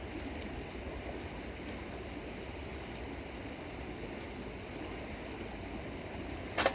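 River water flowing steadily, with a few faint clicks. One short sharp crack near the end is the loudest sound.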